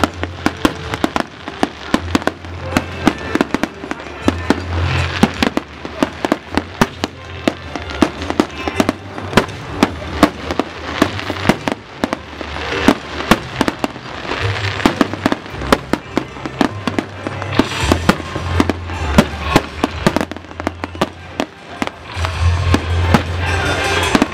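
Fireworks bursting in quick succession, many sharp bangs a second, over music with a steady bass.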